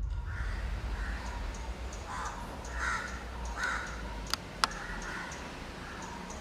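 Harsh, cawing animal calls repeated about once every second, over a low rumble, with two sharp clicks about four and a half seconds in.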